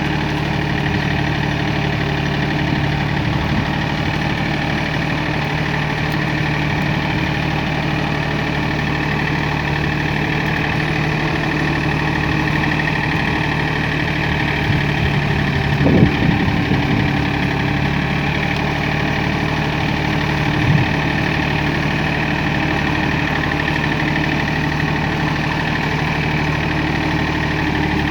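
Tractor engine running steadily. A short clunk comes about halfway through, and a smaller one a few seconds later.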